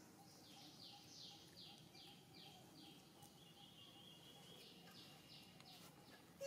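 Faint bird calls: runs of short falling high notes, about three a second, with a thin steady high tone between the runs.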